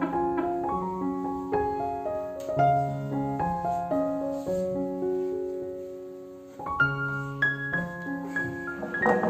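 Background solo piano music playing a slow melody with chords; one phrase dies away about six and a half seconds in and a new phrase begins. A brief noise sounds under the music right at the end.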